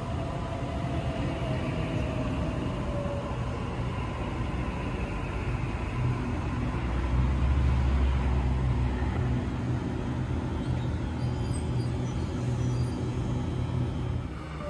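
Sydney electric suburban train running at a station: a steady low rumble with a faint falling motor whine in the first few seconds, growing louder to its peak about seven to nine seconds in.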